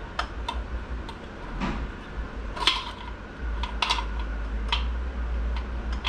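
Irregular light metallic clicks and clinks as a transmission band is fed into a Ford AOD transmission case and turned to seat its dog leg, with a low steady hum underneath.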